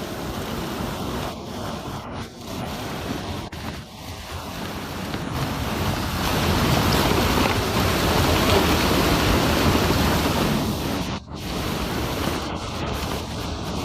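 Steady rushing noise of surf and wind. It swells louder in the middle and drops out for an instant about eleven seconds in.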